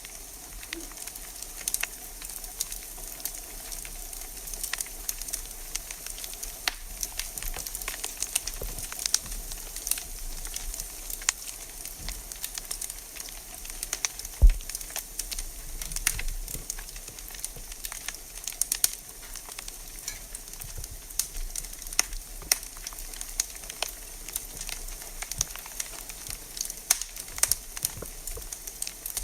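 Wood fire burning in a fireplace: a steady hiss with irregular crackles and snaps, and one louder pop about halfway through.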